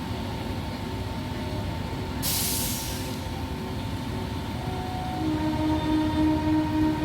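MEMU electric multiple-unit train running with a steady rumble and a short hiss about two seconds in. From about five seconds in, its horn sounds with a wavering tone.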